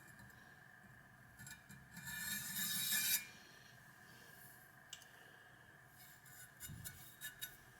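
A cleaver's steel edge scraped edge-on across a hard abrasive surface to deliberately dull it before sharpening: one long gritty scrape that grows louder, followed by a few light clicks and taps near the end.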